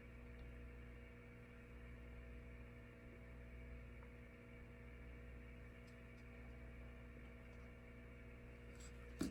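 Near silence: room tone with a steady low electrical hum, and one brief click near the end.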